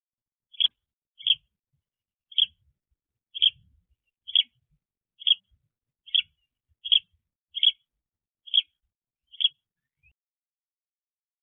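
A bird repeating one short, high call about once a second, a dozen times, then falling silent near the end.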